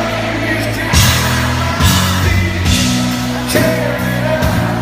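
Live country band and singer performing a slow song over a concert PA, recorded from the audience: a sung melody over steady bass notes, with a drum hit about once a second.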